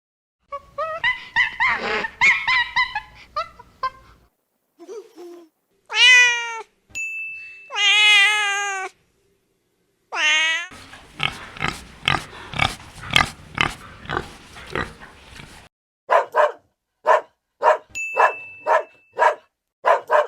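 A run of different animal calls cut together, among them long drawn-out cat meows about six and eight seconds in. Near the end comes a quick series of short, evenly spaced calls.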